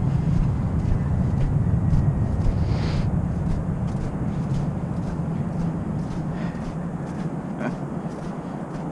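A train running, a steady low rumble that slowly fades, with faint, evenly spaced clicks in its second half.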